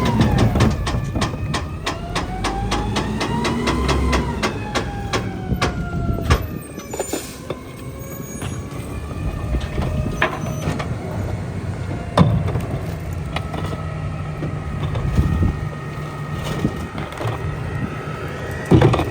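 Mack LEU rear-loader garbage truck with a New Way body running its packer. The engine rises in pitch and falls back over the first several seconds, with rapid clicking. It then settles to steadier running with a few sharp clanks, the loudest about twelve seconds in.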